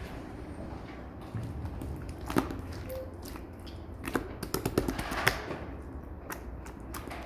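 Clear slime with air bubbles still in it being worked by hand, giving scattered sharp clicks and pops, with a cluster of them in the middle.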